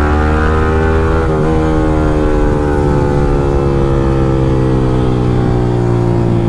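Yamaha R15M's 155 cc single-cylinder engine running through a free-flow Akrapovič exhaust while riding: the revs climb, break briefly on a shift about a second in, then the engine note falls slowly as the revs drop.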